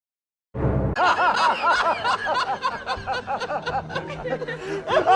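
High-pitched laughter, quick giggles one after another, starting suddenly about half a second in.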